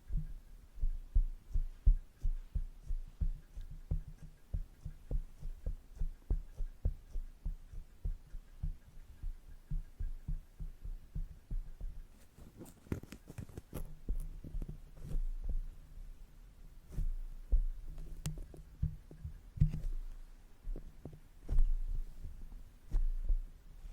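Makeup brush tapping and brushing directly on the microphone: a quick run of soft low thumps, about three a second, giving way about halfway through to denser brushing strokes with a few sharper clicks.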